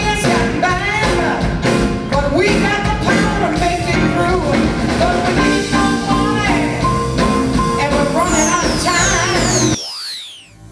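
Blues-rock band playing with a singer and drums. Near the end a few high falling sweeps sound, then the music cuts off suddenly, leaving a short fading tail.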